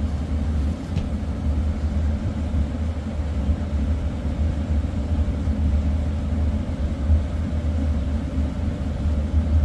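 Furnace running just after ignition: its blower motor and burner make a steady low rumble, the furnace operating normally.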